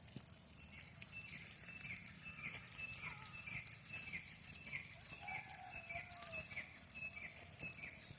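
A bird calling over and over, about two short falling notes a second, with a lower falling call about halfway through, over a steady high hiss.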